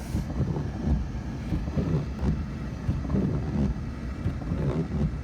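Wind buffeting the microphone in a snowstorm, a loud, gusting low rumble.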